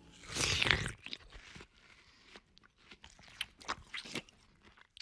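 Close-up eating sounds of a mouthful of homemade fried rice with pork belly and vegetables: a loud bite about half a second in, then irregular crunching and small clicking chews.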